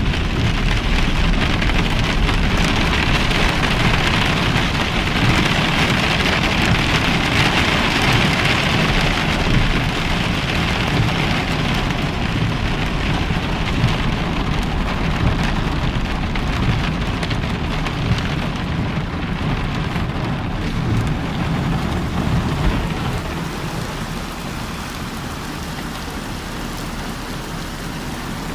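Rain falling steadily, an even hiss of drops that eases slightly near the end.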